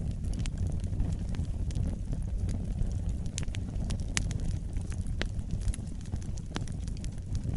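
Wood fire burning in a fireplace: a steady low rumble of the flames with scattered sharp crackles and pops at irregular intervals.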